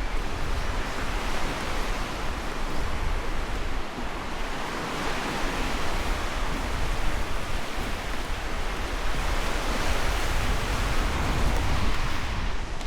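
Ocean surf on the shore: a steady rush of breaking waves that swells twice, about five and eleven seconds in.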